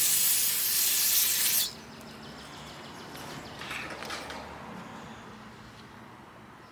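Aerosol carburetor cleaner spraying onto a small-engine carburetor in one long, steady hiss that cuts off sharply a little under two seconds in.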